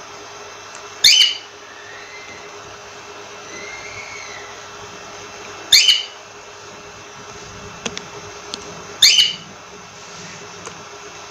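Cockatiel giving three loud, short, rising whistled calls, a few seconds apart, with a couple of soft chirps between them, over a steady background hum.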